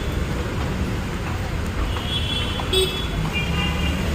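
City street traffic running steadily: motor vehicle engines and tyres on the road, with a constant low rumble. Two short, high-pitched tones break through, about two seconds in and again from about three seconds in.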